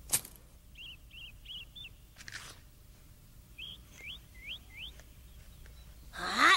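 Small birds chirping in two short runs of about four calls each. A sharp snap comes just at the start as a tomato is pulled off the vine, and a brief rasp follows a couple of seconds in. Near the end a voice rises suddenly and is the loudest sound.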